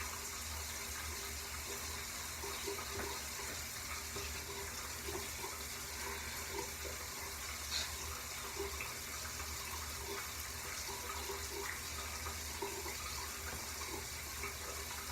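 Steady hissing noise with a low hum beneath it and faint, scattered small clicks.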